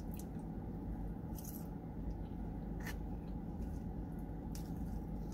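Wet, squishy chewing of saucy chili cheese fries, with a few sharp clicks of a plastic fork against the cardboard box, over a steady low background hum.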